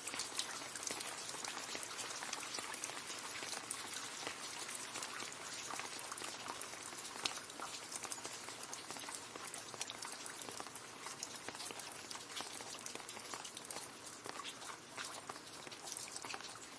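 Rain splashing into a puddle: a dense steady patter of many drops striking the water, with individual drop hits throughout.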